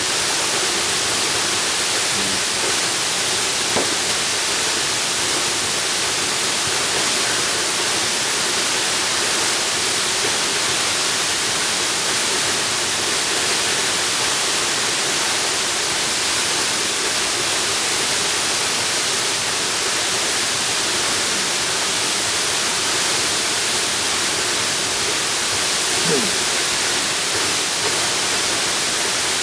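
Jungle waterfall: falling water rushing steadily and without a break.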